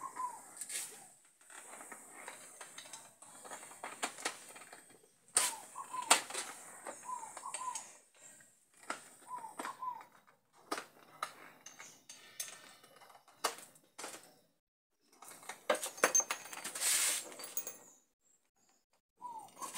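Short bird chirps recurring every second or two, over scattered clicks and knocks of handling, with a denser rattling and scraping about two seconds long near the end. The drill is not running.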